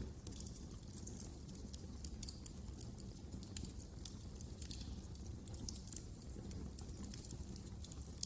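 Wood fire crackling in a fireplace: frequent small, sharp pops and snaps at irregular intervals over a low, steady rumble.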